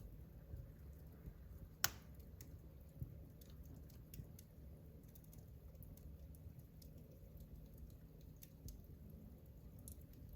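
Wood fire in a fireplace crackling faintly, with scattered small pops and one sharper, louder pop about two seconds in, over a low steady rumble.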